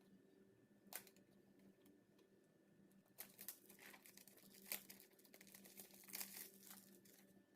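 Faint crinkling and rustling of packaging being handled, in clusters from about three seconds in, after a single click about a second in.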